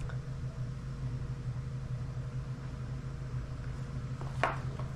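Steady low hum with a faint hiss, with one short click about four and a half seconds in.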